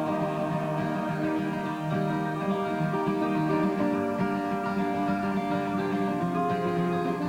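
Acoustic guitar playing an instrumental break between verses of a folk song, with steady strummed and plucked notes.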